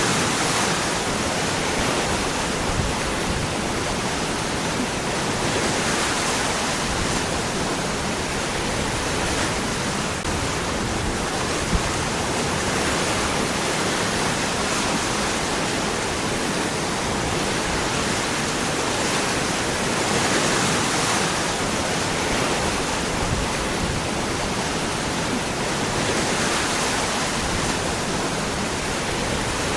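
Waterfall with water pouring and splashing over rocks, a steady full rush of falling water that swells and eases slightly every few seconds.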